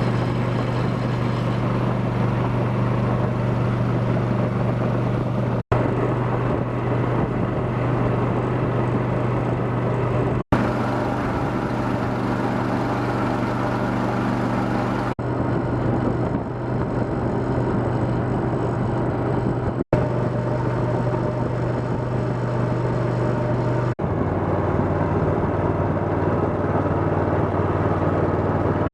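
A motor vehicle's engine running with a steady low drone, across several spliced clips that cut off abruptly about every five seconds.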